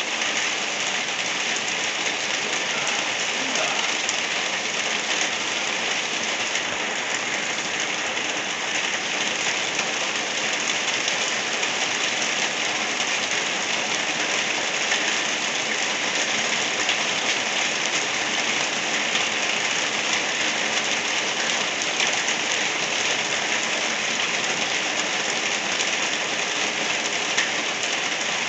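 Gentle rain falling steadily, an even hiss of drops that holds constant throughout.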